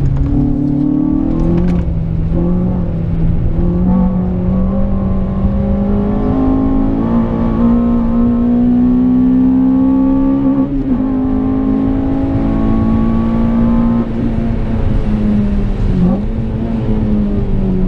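Honda Civic Type R FN2's 2.0-litre K20 four-cylinder, heard from inside the cabin under hard acceleration. The engine note climbs steadily in pitch, drops sharply about eleven seconds in at an upshift, climbs again, then falls away near the end as the car slows.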